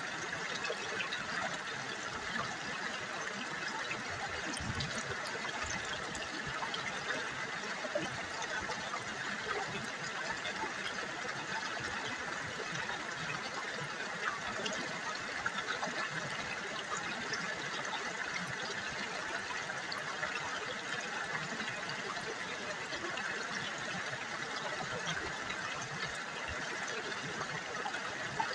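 River water trickling and babbling steadily, a continuous splashing rush with no break.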